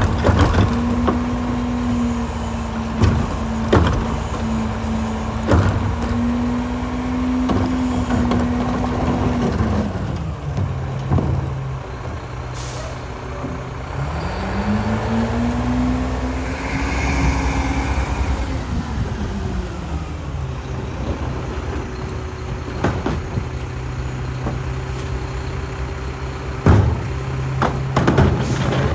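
Mack Granite garbage truck's diesel engine held at raised revs to drive the New Way King Cobra rear loader's packer, dropping to idle around ten seconds in, revving up again for a few seconds in the middle, then settling back to idle. Scattered clanks and knocks throughout, and a short burst of air hiss about thirteen seconds in and again near the end.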